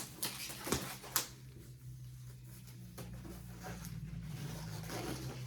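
Disposable exam gloves being pulled on, with a few sharp snaps in the first second or so, then a faint steady room hum.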